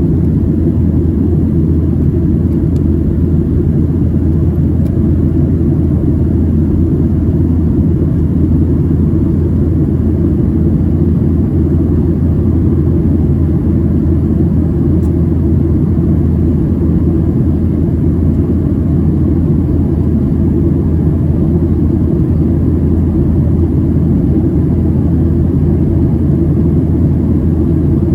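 Steady low rumble of a Boeing 737-700 heard from inside the passenger cabin during the climb: CFM56-7B engine and airflow noise.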